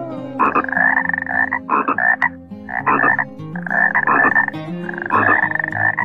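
An animal's repeated rasping calls, about five in a row and each under a second long, over soft steady background music.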